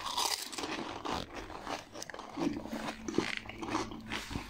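Mouth crunching and chewing of pani puri: the crisp, hollow fried puri shells crackle between the teeth in many small irregular cracks.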